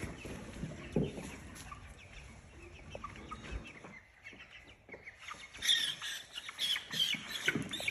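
Young Cornish cross meat chickens clucking and cheeping while being caught and handled, the short calls coming thick in the last couple of seconds.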